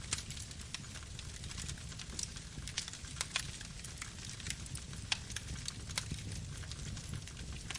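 Campfire burning: a steady low rumble of the flames with frequent irregular sharp crackles and pops of burning wood.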